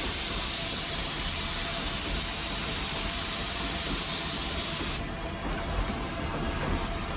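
Steam hissing loudly in the cab of Nevada Northern No. 81's steam locomotive, over a steady low rumble. The hiss cuts off suddenly about five seconds in, and the rumble continues.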